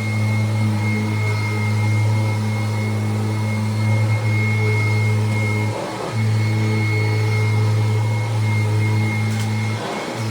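1993 Kirby Generation 3 upright vacuum cleaner running, a steady low hum with a high whine over it, dipping briefly about six seconds in and again near the end.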